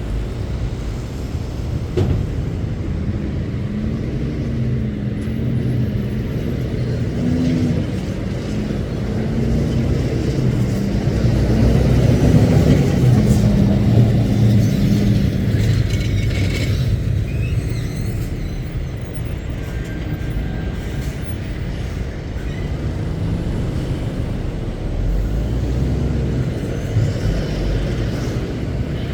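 Heavy goods lorries driving out of a dock gate, their diesel engines running over a constant low traffic rumble. One engine note wavers up and down as a lorry passes close, loudest about twelve seconds in. There is a single sharp click about two seconds in.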